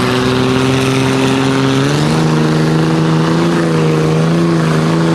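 A mud truck's engine held at steady high revs, stepping up to a higher held pitch about two seconds in.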